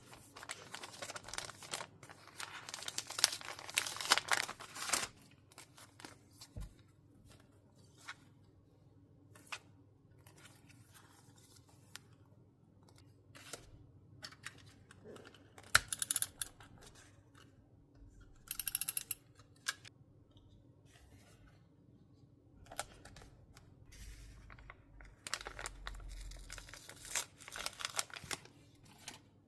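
Paper being torn and rustled by hand, with light taps and clicks between. The longest spell of tearing and rustling fills the first few seconds, and another comes near the end.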